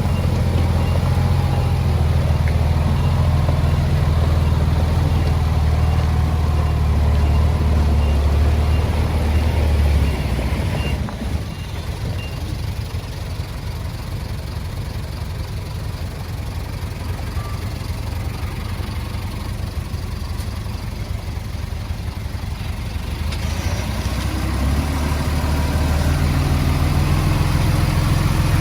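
Heavy diesel engine of earthmoving equipment running with a deep, steady note. About ten seconds in it drops to a lower, rougher sound, and it comes back up strongly near the end. A faint reversing beeper sounds over the first dozen seconds.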